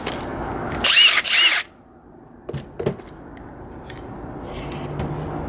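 Cordless impact driver given two quick trigger pulls about a second in, its motor whining up and back down each time; a few light knocks of the tool being handled follow.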